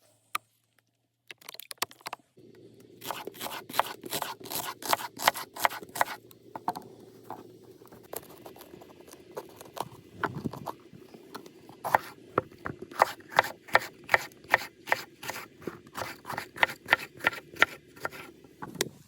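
A fast series of sharp snipping or clicking strokes, about three to four a second, over a steady low hum; the strokes start about two seconds in, thin out midway and pick up again.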